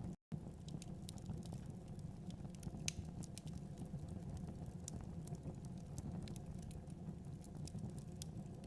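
Wood fire in a fireplace burning with a steady low rumble and scattered sharp crackles and pops. The sound cuts out completely for a moment just after the start.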